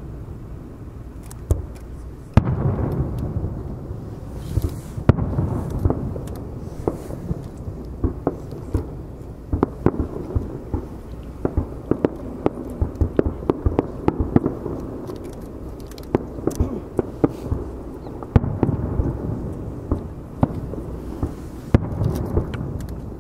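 Aerial firework shells bursting in a display: several deep booms, about 2, 5, 18 and 22 seconds in, with dense sharp pops and crackles between them over a steady low rumble.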